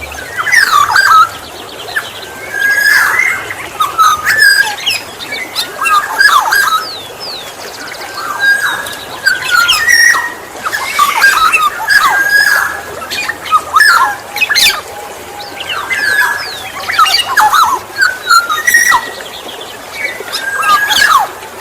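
Black-naped oriole (kepodang emas) calling over and over, short whistled and harsh phrases with quick downward slurs about every one to two seconds, with thinner high chirps in between.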